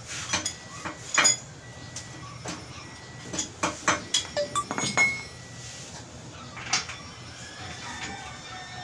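Metal tools and parts clinking and knocking against each other: an irregular string of sharp clicks, several with a short metallic ring. The loudest knocks come about a second in and again around four to five seconds in.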